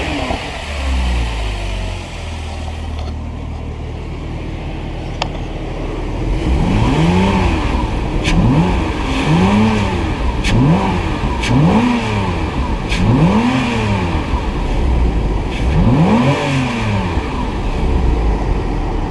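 Porsche Cayman 3.4-litre flat-six engine idling, then revved in about seven quick throttle blips, each rising and falling in pitch, from about six seconds in until near the end.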